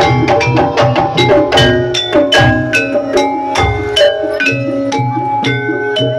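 Live jaranan gamelan music: metal keyed percussion struck in quick, ringing notes over low drum strokes, playing continuously.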